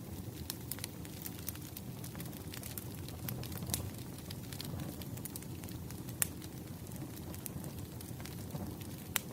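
Wood bonfire burning low as it dies down: a steady low rumble with scattered crackles and pops, the sharpest about six seconds in and again near the end.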